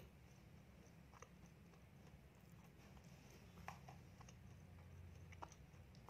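Faint chewing of a peanut-topped donut close to a clip-on microphone: a few soft, separate mouth clicks over a low steady hum.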